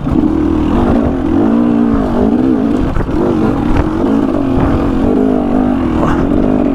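KTM 300 XC two-stroke dirt bike engine revving up and down repeatedly as it is ridden hard along a trail, its pitch rising and falling with each throttle change.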